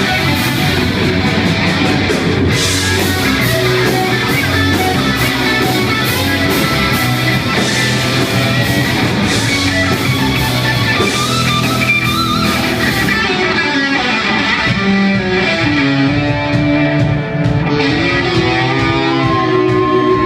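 Live heavy metal band playing an instrumental passage with distorted electric guitars, bass and drums. In the second half the cymbals drop back and a lead guitar plays sustained, bending notes.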